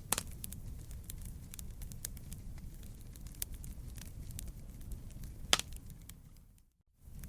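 Wood fire burning: a steady low rumble with scattered sharp crackles and pops, the loudest pop about five and a half seconds in. The sound fades out briefly near the end, then comes back.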